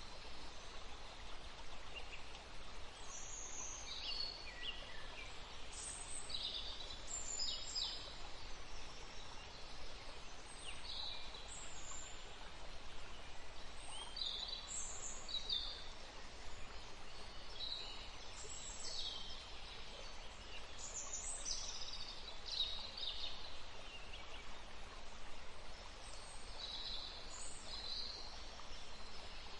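Forest stream running with a steady rush, and songbirds giving short, high chirps and trills throughout.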